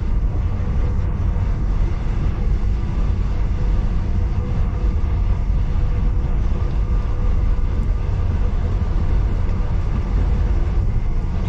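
Excursion train in motion: a steady, heavy low rumble with faint steady tones above it.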